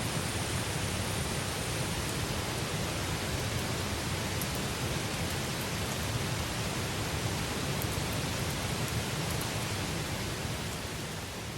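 Campfire burning: a steady rushing noise with a few faint crackles.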